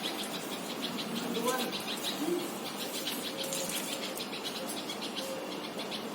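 Steady outdoor background of insects chirring in a quick, even pulse, with a few faint bird chirps.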